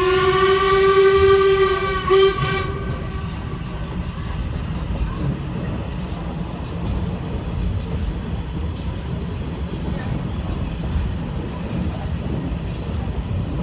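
A steam locomotive whistle sounds for about two seconds, with a short second toot right after. The train then runs on with a steady rumble of carriage wheels and the Stanier Black 5 steam locomotive working ahead.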